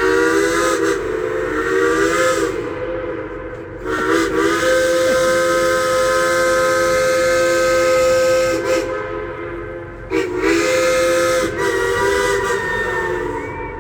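Steam locomotive's chime whistle on the Durango & Silverton train sounding three long blasts, the middle one the longest. Each blast is a chord of several steady tones at once, with steam hiss between them.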